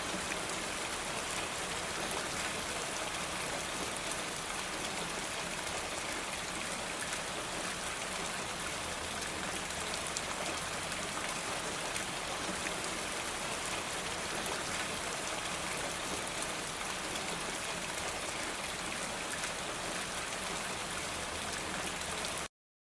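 Steady rain falling, an even patter of many drops, which cuts off suddenly near the end.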